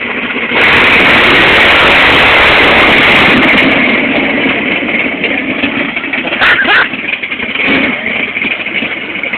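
A 540 big-block Chevy V8 in a '57 Chevy mud truck launching at full throttle for a hole shot: the sound jumps sharply louder about half a second in, stays at full blast for about three seconds, then eases off as the truck pulls away. There is a brief sharp burst a little past the middle.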